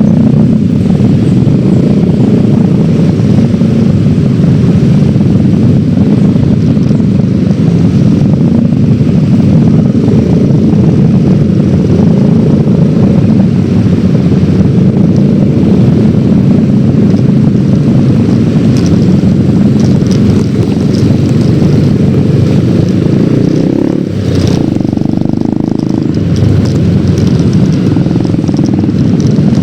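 Yamaha X-Ride 113cc single-cylinder scooter engine running while riding, heard under heavy, steady wind rush on the microphone. The sound eases off briefly about three-quarters of the way through, then picks up again.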